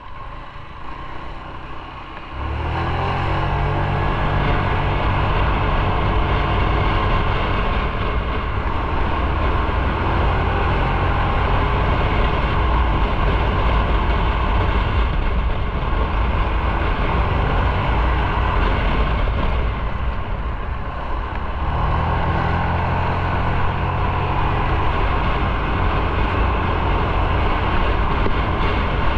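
Motorcycle engine, quieter at first, then pulling away about two and a half seconds in and running under way with wind noise. The engine eases off around twenty seconds in and pulls hard again a second or so later.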